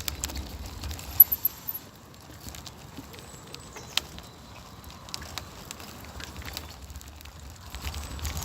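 A bicycle in motion heard through a phone clamped to its handlebar: scattered clicks and rattles over a low rumble, with a few sharp knocks about a second in.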